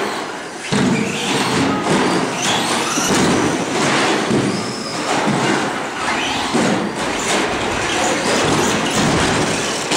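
Several radio-controlled short-course trucks racing on an indoor track: a continuous mechanical clatter and whir of motors and tyres, rising and falling in loudness, broken by short knocks and thuds.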